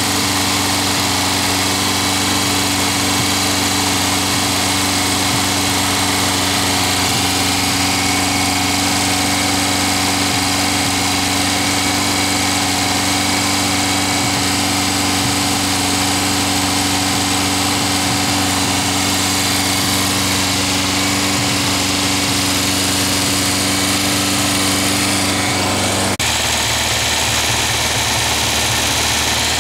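Air-cooled Volkswagen flat-four, a 1600 case stroked and bored out to 2110 cc, running steadily at a held fast speed of about 2,500 RPM to break in a new camshaft. The sound shifts abruptly near the end, then runs on.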